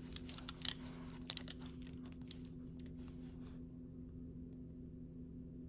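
Small clicks and light rustling from die-cast toy cars being handled, with a couple of sharper clicks in the first second and a half, stopping about three and a half seconds in. A steady low hum lies underneath.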